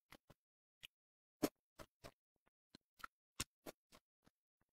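Close-miked chewing sounds of a mouthful of braised fish: about a dozen short, irregular wet clicks and smacks, the loudest about one and a half seconds in.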